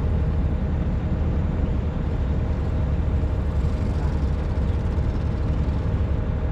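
Excavator's diesel engine running steadily: a continuous low rumble with a steady hum above it.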